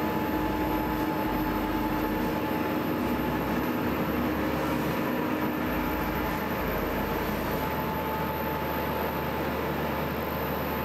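Steady whirring hum of cooling fans and air conditioning in a cinema projection room, with a few constant tones in it and no change throughout.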